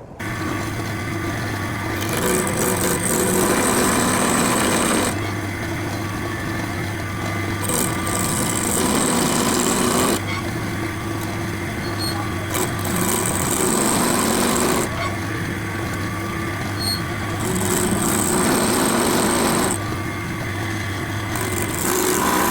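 Wood lathe running while a turning tool cuts the spinning wood, a steady motor hum under a scraping cutting noise. The sound steps abruptly between quieter and louder cutting stretches every few seconds.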